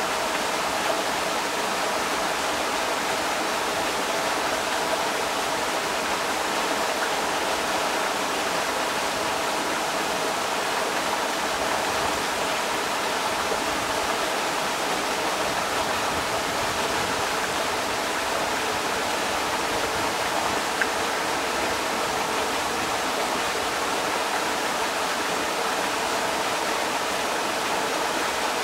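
Creek water rushing over rocks in a steady, unbroken wash.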